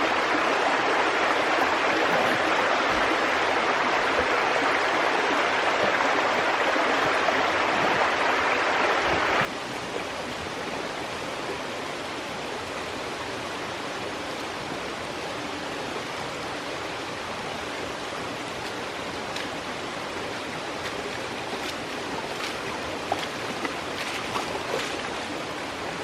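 Creek water rushing steadily over rocks, loud until about nine seconds in, then cutting abruptly to a quieter, steady flow. A few faint clicks come near the end.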